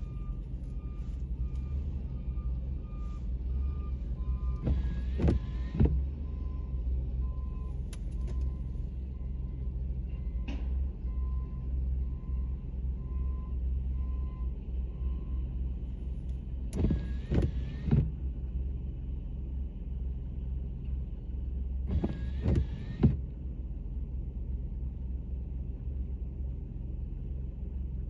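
Steady low rumble of a car, heard from inside the cabin. A repeating high electronic beep sounds for roughly the first ten seconds, and three short louder noises come through at intervals.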